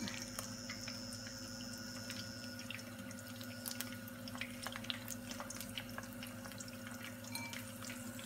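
Cornflour- and spice-coated okra sizzling in hot oil as more pieces are dropped in by hand, with a constant light hiss and many small scattered crackles and pops. A steady low hum sits underneath.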